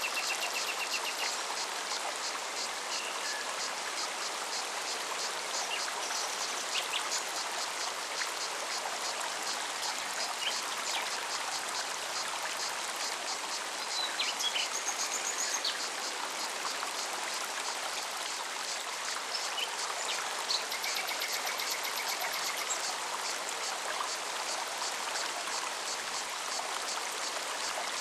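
Forest stream running steadily, with cicadas buzzing in a fast high pulse and scattered short bird chirps and trills over it.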